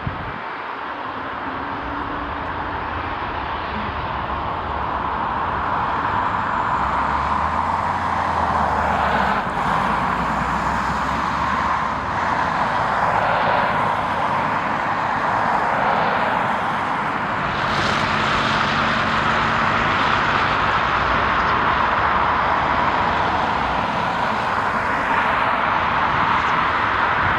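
Passenger jet airliner's engines, a broad rushing noise with a low rumble that grows louder over the first several seconds and then stays loud.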